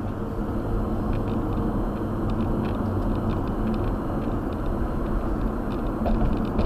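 Steady road and engine noise inside a moving car, with a few faint ticks.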